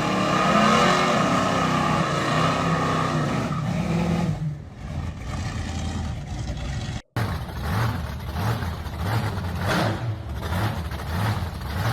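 Classic muscle car engine sounds. A steady engine note fades about four seconds in. After an abrupt cut about seven seconds in, an engine runs with an uneven pulse of about two beats a second.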